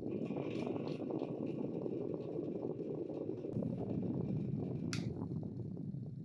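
Restored antique electric table fan running, a steady rushing of moving blades and air, with a sharp click about five seconds in, as from its switch. The sound begins to die away just before the end.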